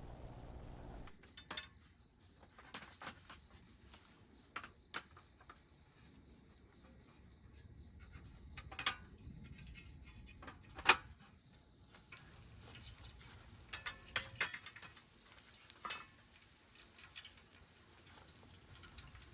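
Scattered light clinks and knocks of camp dishes and utensils being handled, with one sharper knock about halfway through.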